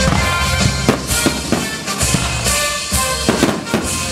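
Loud music with a drum beat, with aerial fireworks going off over it: sharp bangs and crackles several times, more of them in the second half.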